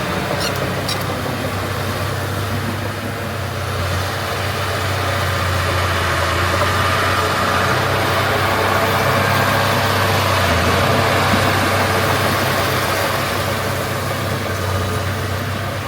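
Heavy diesel engine of earthmoving machinery running steadily with a deep hum, growing a little louder through the middle and easing off near the end.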